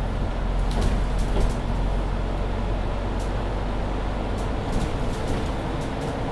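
Mercedes-Benz Citaro C2 Hybrid bus heard from inside while driving: a steady low engine and road rumble, with scattered light rattling clicks from the cabin. A faint steady tone comes in about two-thirds of the way through.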